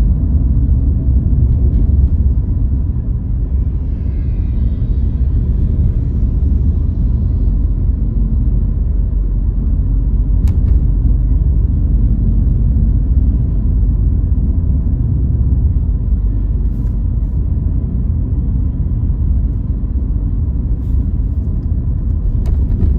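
Steady low rumble of a car driving along: road and engine noise of the moving vehicle.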